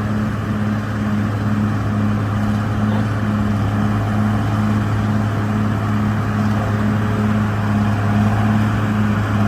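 Heavy diesel engine of a construction machine (bulldozer or excavator) running steadily, a low drone with a throb pulsing about twice a second.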